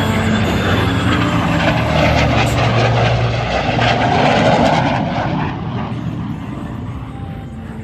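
F-22 Raptor's twin turbofan jet engines as the jet passes: loud jet noise building to a peak about four to five seconds in, then fading away.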